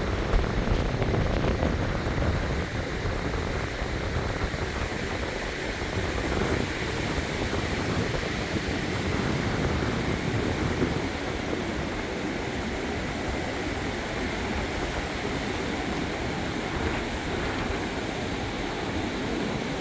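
Small waves washing onto a sandy beach: a steady rushing hiss that swells a little now and then.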